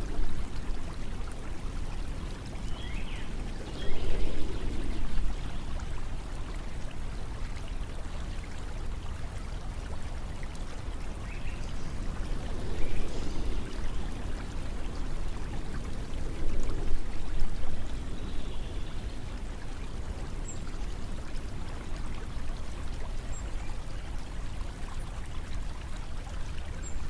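Steady rush of flowing water under a low wind rumble that swells several times, with a few faint high chirps.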